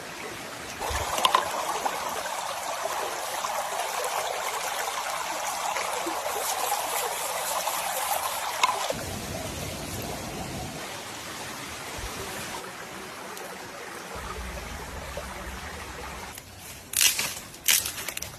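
Water pouring or trickling steadily for about eight seconds, then stopping abruptly, leaving a softer low rushing sound. A few sharp knocks come near the end.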